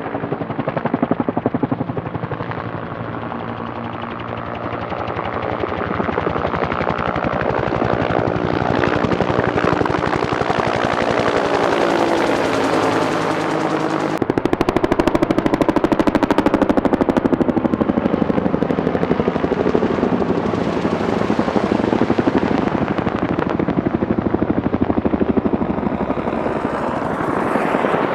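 Firefighting helicopter flying close, its rotor chopping in rapid pulses and the pitch sliding down and back up as it moves past. It grows louder and heavier about halfway through.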